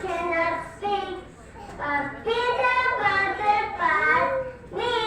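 A child singing a slow song without accompaniment, in held notes that glide between pitches, with two short breaths between phrases.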